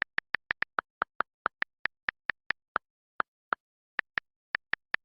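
A rapid run of short, sharp clicks, about four a second with uneven gaps, over dead silence: an added click sound effect rather than live sound.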